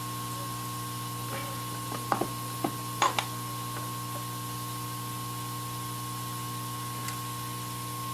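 Steady electrical hum with a constant high whine from running bench equipment, broken by a handful of light clicks and taps of small tools about two to three seconds in.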